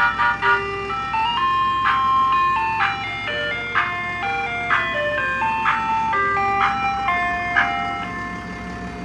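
Ice cream truck's jingle playing a tinkly melody through its loudspeaker over a steady low engine hum. The tune ends on a held note about eight seconds in.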